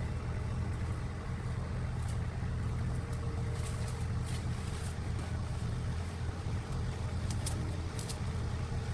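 An engine running steadily at an even speed, with a few light clicks over it.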